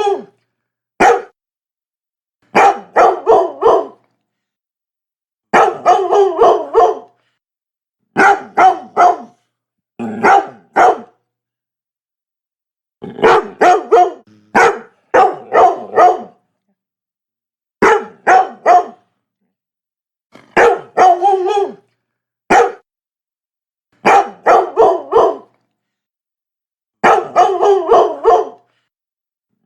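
Labrador retriever barking in quick bursts of about three to five barks, a new burst every two to three seconds, with silent gaps between.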